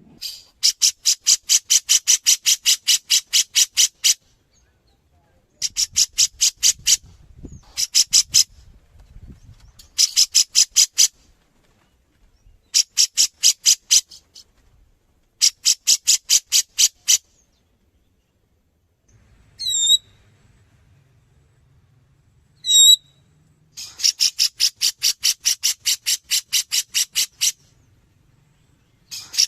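Grey-cheeked bulbul (cucak jenggot) calling loudly in repeated bouts of rapid, evenly spaced high notes, about four a second, each bout lasting one to four seconds with short pauses between. Twice near the middle it gives a single short call instead.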